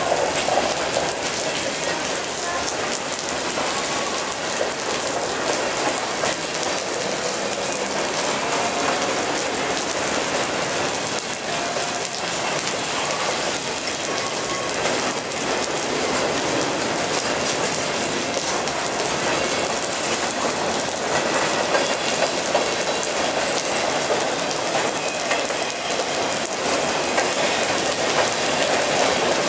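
CSX freight cars rolling past, wheels clicking over the rail joints, mixed with the steady hiss of heavy rain.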